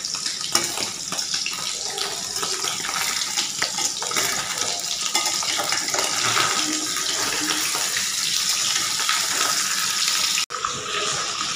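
Paneer cubes shallow-frying in hot oil in a kadhai: a steady sizzle with many small crackles. It cuts out briefly near the end.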